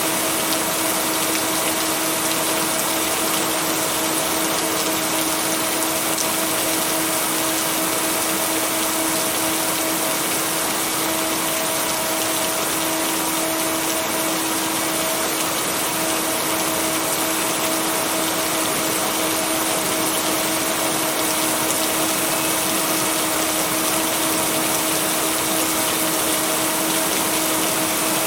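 Steady rain noise, an even hiss with no thunder, with a steady low tone and a fainter tone an octave above it running underneath: a rain track blended with binaural-beat tones and white noise.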